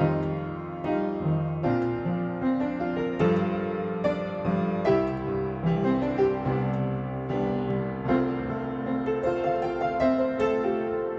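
Gentle background piano music, a slow melody over sustained chords.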